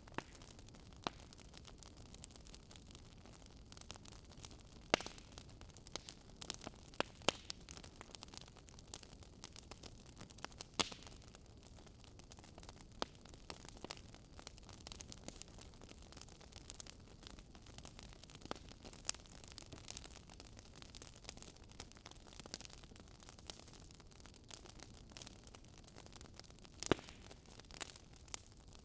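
Burning wood crackling: irregular sharp pops and snaps over a low steady hiss, with a few louder snaps standing out.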